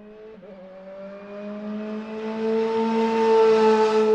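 Car engine revving up in an intro sound effect, rising slightly in pitch and growing steadily louder.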